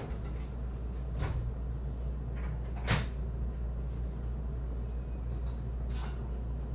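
Train running sound heard from inside the carriage: a steady low rumble with a few short knocks and clicks, the loudest about three seconds in.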